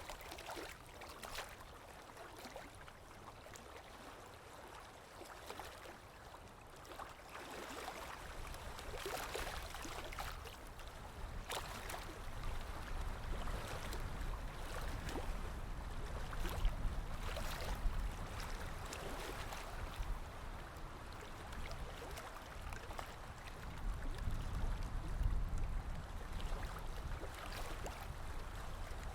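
Sea waves washing in, a steady rush of water with sharp splashes scattered through it; the surge swells in loudness, with the strongest pushes around the middle and again near the end.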